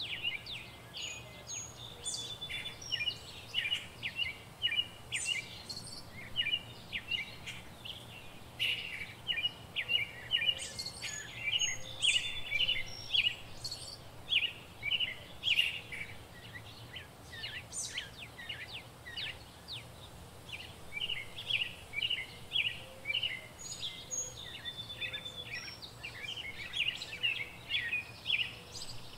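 Small birds chirping on and off, in quick runs of short high chirps with an occasional thin whistle.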